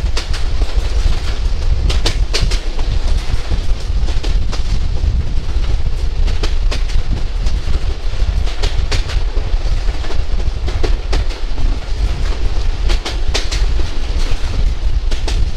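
Bangladesh Railway local train running, heard from on board: a steady rumble with the clickety-clack of the wheels over rail joints, the clicks often coming in pairs every second or two.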